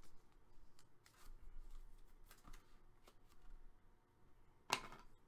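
Trading cards handled and flipped through by hand: faint rustling and light clicks of card stock, with one sharper click near the end.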